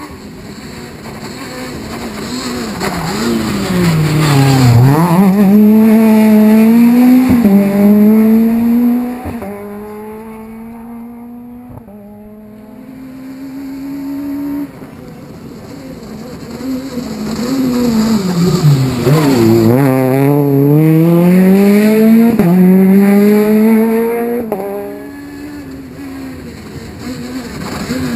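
Two rally cars pass at speed, one after the other about fifteen seconds apart. Each engine's pitch drops sharply as the car slows for a corner, then climbs in steps as it accelerates away up through the gears, loudest as it goes by.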